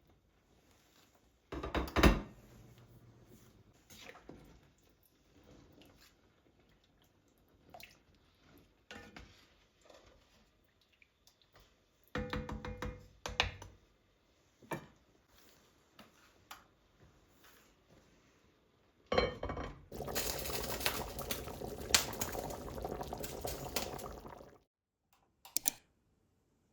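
Kitchenware being handled, with scattered knocks and clinks and one sharp knock about two seconds in. After that comes about five seconds of liquid pouring, and then a couple of quick knocks near the end.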